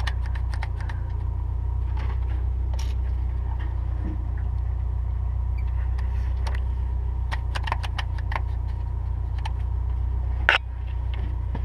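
A steady low rumble, like a vehicle engine idling, under scattered light clicks and taps, with one sharp knock about ten seconds in.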